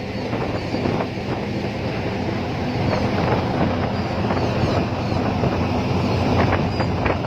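Wind buffeting the microphone: a steady rushing rumble.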